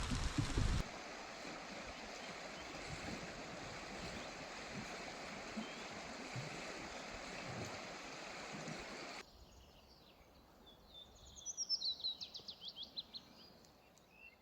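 Steady rushing of a spring stream, which cuts off abruptly about nine seconds in. A small songbird then sings, with a quick trill of rising notes near the end.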